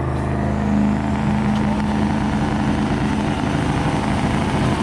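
A vehicle engine running at a steady speed, a constant droning hum.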